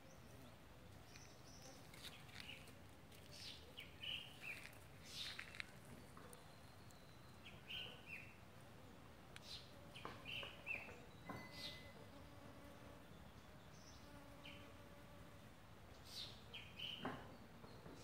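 Faint bird chirps: short, high calls coming in scattered groups of two or three over a quiet outdoor background.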